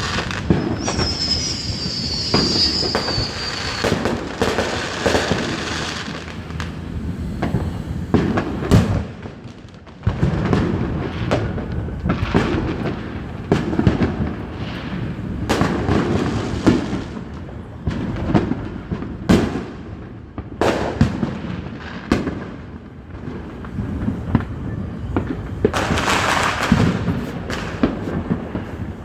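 Fireworks going off in a rapid, irregular series of bangs and booms. A high whistle falls slightly in pitch in the first few seconds, and a burst of crackling comes near the end.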